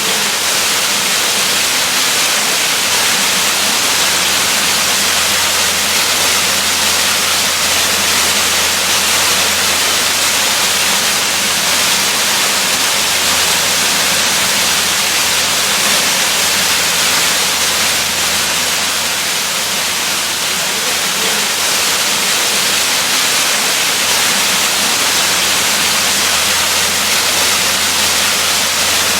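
Waterfall: steady, unbroken rush of falling water, an even hiss strongest in the high range.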